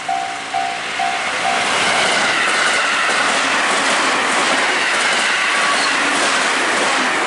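Level crossing warning bell ringing in a steady beat, about two strokes a second. Within a couple of seconds it is drowned out by a train passing close by, its wheels clattering over the rail joints.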